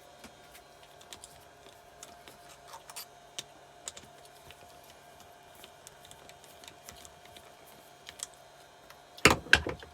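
Scattered light metallic clicks and ticks as the two 10 mm bolts holding the rocker cover of a Keeway TX125 engine are undone and handled, ending with a short, loud metal clatter near the end.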